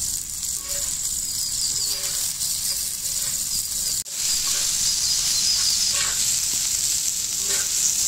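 Chicken pieces sizzling in oil on a hot iron tawa, a steady hiss. After about four seconds it grows louder as a wooden spatula stirs and scrapes the pieces across the pan.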